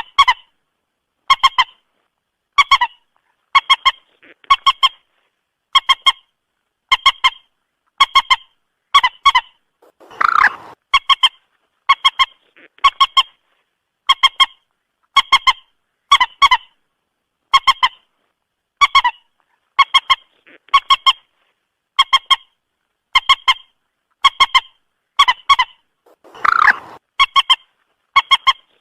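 Moorhen calling: short clucking notes in quick groups of two or three, repeating a little over once a second. Twice, about ten seconds in and near the end, a longer, harsher call stands out.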